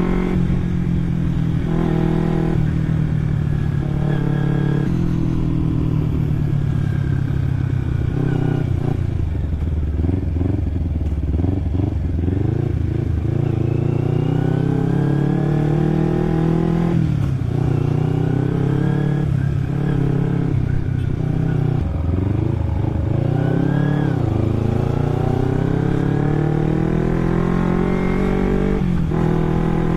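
Kawasaki Ninja 250 carburetted parallel-twin with an Akrapovic aftermarket exhaust, ridden and accelerating. The engine note climbs in pitch again and again and drops back at each gear change.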